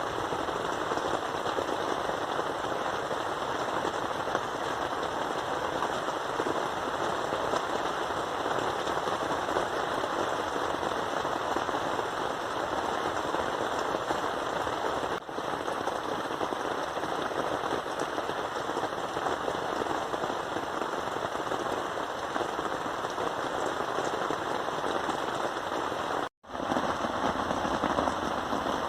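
Heavy rain pattering densely and steadily, briefly cut off near the end.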